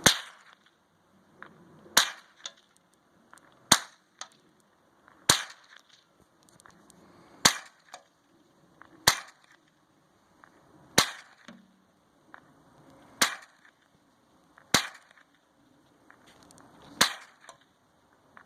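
A .22 rifle fired ten times at a steady, unhurried pace, one sharp crack about every two seconds.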